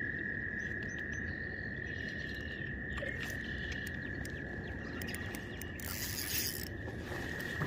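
A steady, high-pitched animal chorus held on one unbroken tone, with a short hiss about six seconds in.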